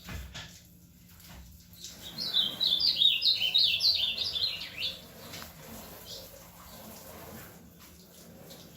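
Ultramarine grosbeak (azulino) singing one quick warbling phrase of high notes that jump up and down, about two seconds in and lasting about two and a half seconds.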